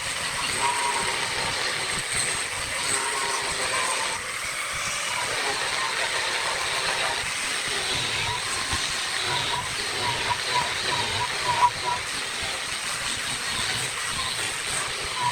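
Wood lathe running with a tool held against the spinning wood, making a steady hiss.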